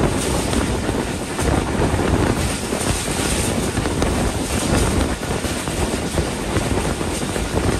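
Passenger train running at speed, heard from an open coach door: a steady rush of wind and the rumble of the wheels on the rails.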